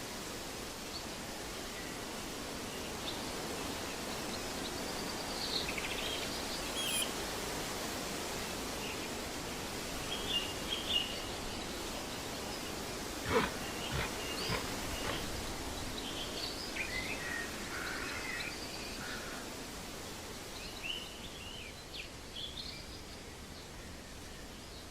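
Steady outdoor background noise with scattered short bird chirps, and a few sharp clicks a little past the middle.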